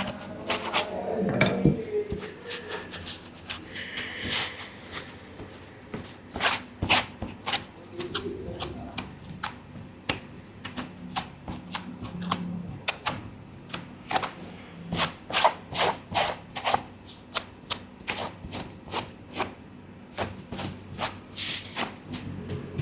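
Irregular run of short, sharp clicks and taps, a few a second, from handling a sneaker and cleaning tools during a shoe clean.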